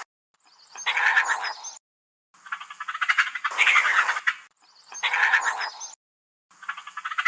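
An animal calling about five times, each call a raspy, fast-pulsing rattle about a second long with short gaps between.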